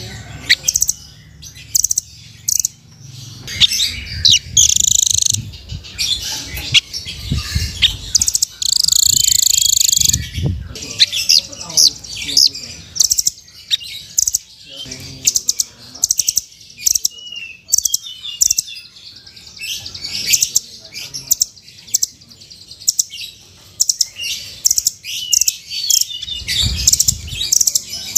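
Velvet-fronted nuthatch (rambatan) singing: a fast, continuous run of high, sharp chirps and trills, with a few louder shrill trilling bursts. Low rumbles sound underneath a few times.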